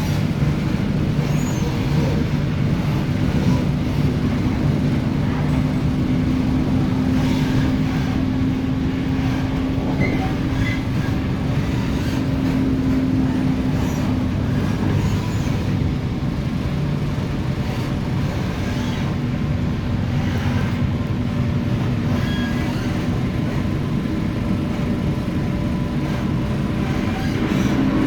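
MTR Tung Chung Line K-Train (Korean-built EMU) running at speed: a steady rumble with a low hum from the traction equipment. The hum fades about halfway through and comes back near the end.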